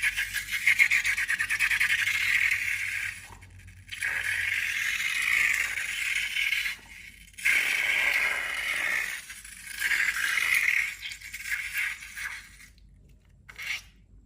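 Slime being worked by hand, crackling and scraping in four long stretches with short pauses between them and a short one near the end.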